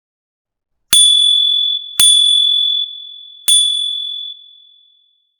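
A high bell-like ding struck three times, about a second in, at two seconds and at three and a half seconds. Each strike rings on a single clear tone and fades, and the last rings out longest.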